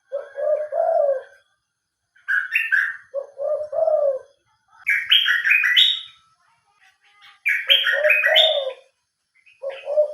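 Birds calling in repeated phrases about a second long, some low and cooing, others higher with stepped notes, taking turns and overlapping once.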